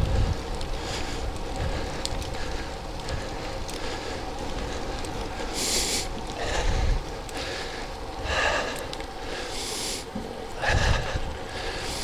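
Wind rushing over the microphone and tyres humming on the road as a road bike is ridden, with a few short hissing surges about six, eight and a half, and ten seconds in.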